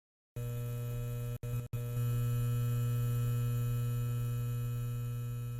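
Steady electrical mains hum with a stack of buzzing overtones, cutting out twice very briefly about a second and a half in.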